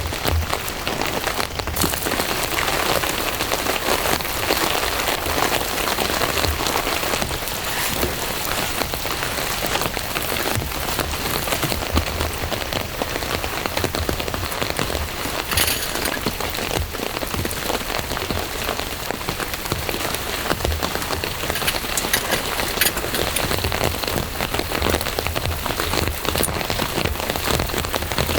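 Steady rain falling: a dense, even hiss with many separate drop hits and occasional low thuds.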